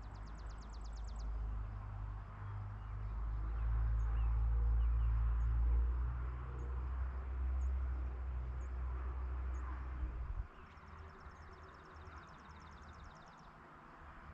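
Outdoor rural ambience: a rapid high trill at the start and again after about eleven seconds, with faint high chirps about once a second in between, over a steady hiss. A strong low rumble runs under the first ten seconds or so and drops off suddenly.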